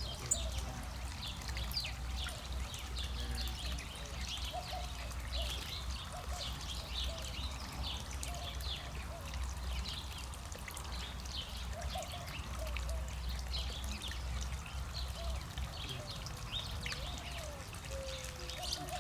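Water trickling and splashing steadily in a small garden water feature, with many short high chirps scattered through it.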